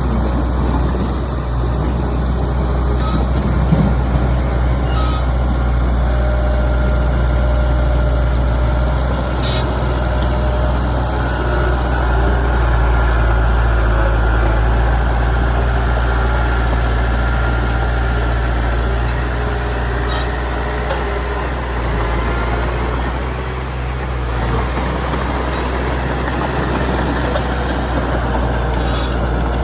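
Heavy diesel engine running steadily, with a few brief clicks now and then.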